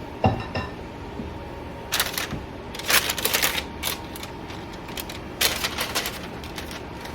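Several short bursts of crinkling, clicking rustle from parchment paper on a baking sheet as dough and filling are handled, over a steady low background hum.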